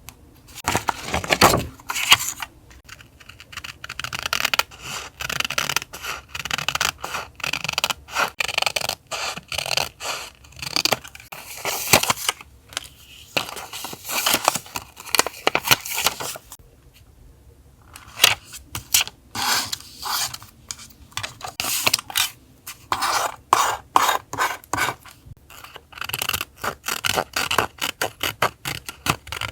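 Paper and stickers being handled for a journal collage: quick, irregular scraping and rustling strokes in dense runs, with a short pause about two-thirds of the way through.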